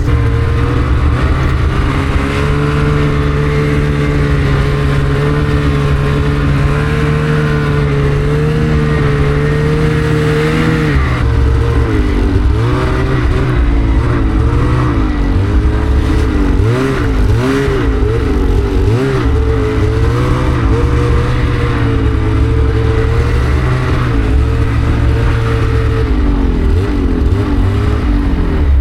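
Snowmobile engine running steadily, then its pitch rising and falling over and over for several seconds as the throttle is worked, before steadying again.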